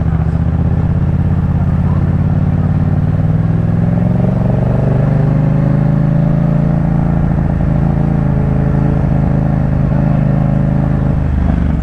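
2018 Yamaha MT-07's parallel-twin engine through a Jeskap K4 full exhaust, running while riding: the engine pitch climbs gradually over the first few seconds, holds steady, then drops near the end as the throttle eases off.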